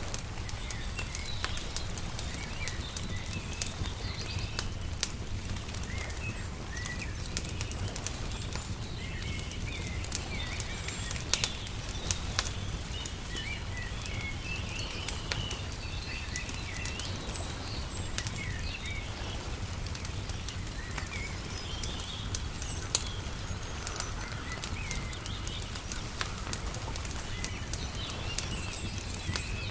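Wood fire crackling with irregular sharp pops, over scattered chirps from small birds and a steady low rumble.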